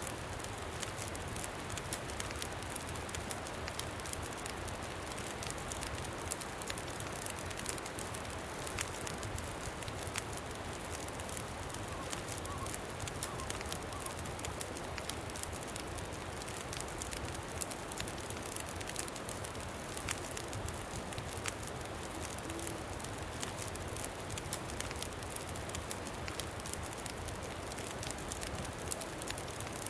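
Campfire crackling with frequent small pops, over a steady rushing noise of wind.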